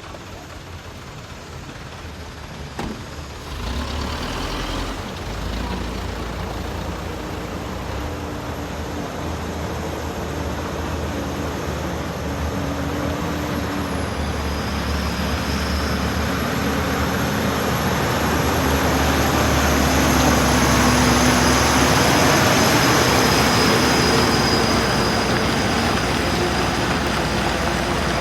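Heavy loaded truck's diesel engine working hard under throttle as it climbs a slippery incline, growing louder to a peak about three quarters of the way through and then easing off a little, with a faint high whine over the engine drone.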